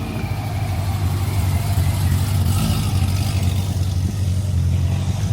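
A car engine running close by with a deep, steady rumble, getting slightly louder about a second in.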